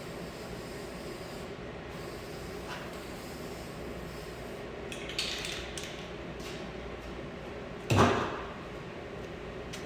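A steady hum, a short hiss about five seconds in, and a loud knock about eight seconds in.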